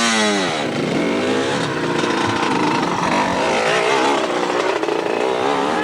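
Dirt bike engine revving. Its pitch drops sharply at the start, then rises and falls unsteadily as the throttle is worked.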